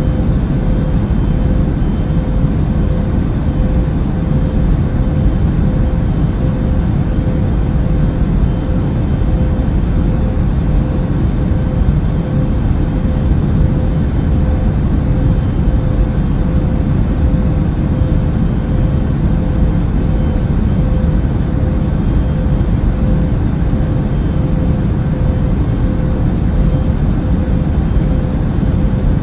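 Airbus A380 cabin noise in cruise flight: a steady, unchanging rush of engine and airflow noise, heaviest in the low range, with a faint steady hum running through it.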